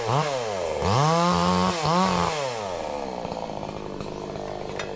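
A small engine revving up and down several times: each rev rises in pitch, holds briefly and drops back. The revs are strongest in the first half, and the engine then runs lower and quieter.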